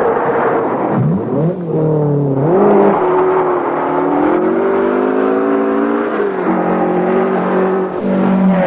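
Rally car engine pulling hard, its revs climbing and dropping back through gear changes, then holding a steady note near the end.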